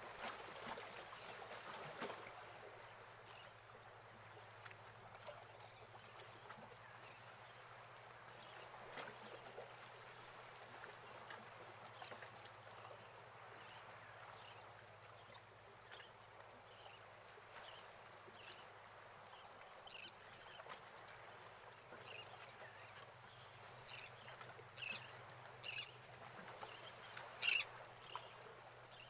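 Faint bird calls, short and high, coming more often in the second half with a few louder calls near the end, over a steady low hum.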